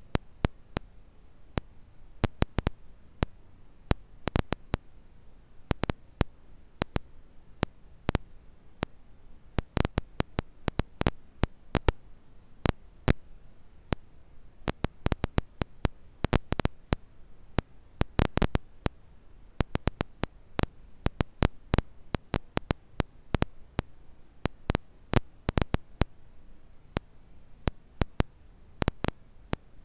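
Campfire crackling: burning wood giving off irregular sharp snaps and pops, sometimes several in quick succession, over a quiet background hiss.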